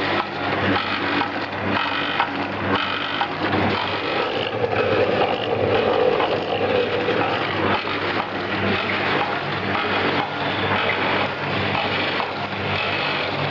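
Automatic powder packing machine running: the auger filler doses powder while the sealing jaws form three-side-seal sachets, a steady mechanical hum with a repeating stroke about once a second.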